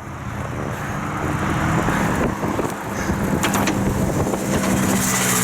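Road traffic passing, with wind rushing over the microphone; a motor vehicle's engine hum grows louder and steadier near the end.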